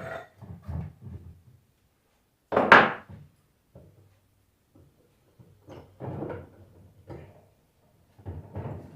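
Knocks and clunks of a rebuilt car alternator being handled and mounted on a test bench, with one sharp, loud knock about three seconds in and softer bumps after.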